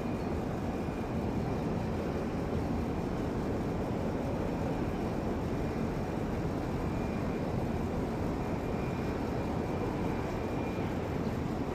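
Jet airliner engines running, a steady rumble with a faint high whine that comes and goes.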